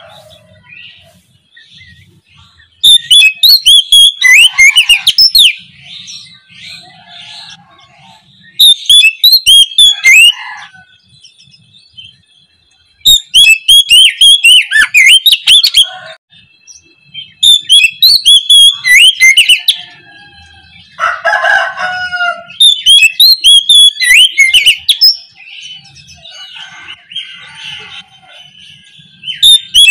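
Oriental magpie-robin (kacer) singing loud, rapid bouts of varied whistles and trills, each two to three seconds long and repeating every four to five seconds, with quieter chirps between the bouts.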